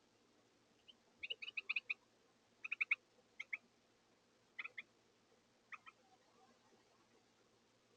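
Carolina wren giving short, harsh call notes in quick groups: a run of about six, then groups of four, two, three and two, thinning out over about five seconds.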